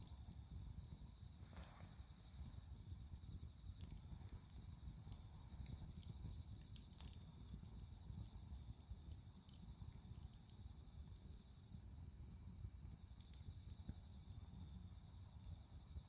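Dry firewood fire burning, with faint, scattered crackles and pops.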